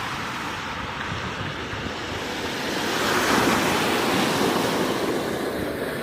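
Ocean surf: waves breaking and washing in, swelling louder a few seconds in, with wind on the microphone.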